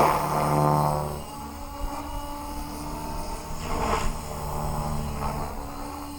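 Align T-Rex 550X electric R/C helicopter in flight: a steady hum of the rotor blades and motor, swelling louder at the start and again about four seconds in.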